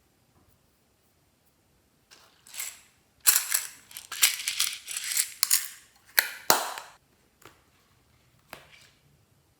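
Slime being mixed and handled: a run of sharp, crackling, clicking squelches beginning about two seconds in and lasting about five seconds, followed by a few faint clicks.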